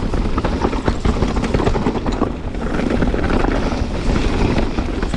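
Canyon Spectral 29 mountain bike rolling fast down a dirt trail. Wind buffets the microphone, the tyres run over the ground, and the chain and bike keep up a rapid clatter of small knocks over the rough surface.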